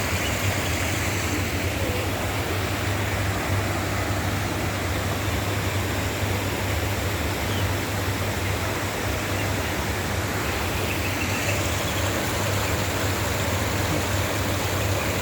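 Steady rushing of running water in a duck pond, with a low steady hum underneath.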